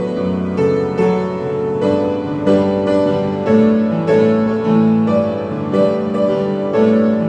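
Piano playing slow, sustained chords, a new chord or note struck about every second.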